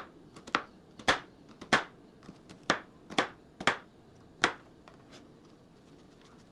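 Kitchen knife cutting onion on a cutting board, the blade knocking the board about twice a second as the onion is diced into brunoise. The chopping stops after about four and a half seconds, leaving only a few faint taps.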